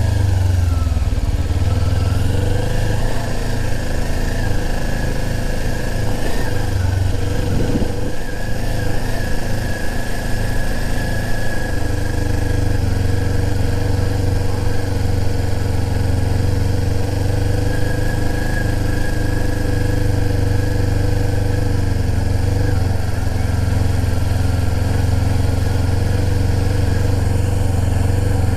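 Stock-exhaust motorcycle engine running as the bike is ridden at low speed, its revs rising and falling during roughly the first dozen seconds, then holding steady.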